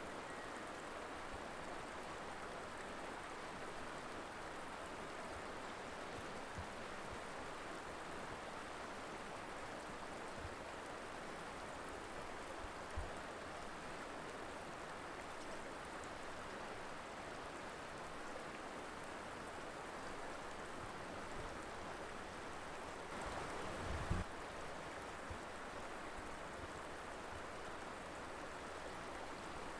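Colorado River flowing: a steady, even rush of running water. A brief low thump comes late on, with a couple of fainter low knocks earlier.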